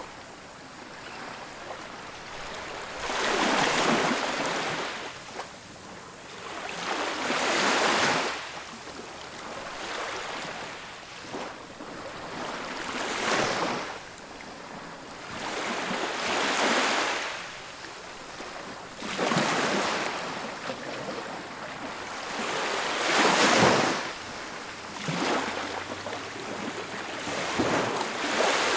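Ocean waves breaking on a beach. The surf surges and washes back in a steady rhythm, about one wave every three to four seconds.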